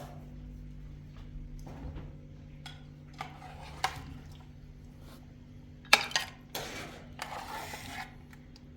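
Dishes and metal utensils clinking and clattering in scattered knocks, with the loudest clatter about six seconds in, over a faint steady low hum.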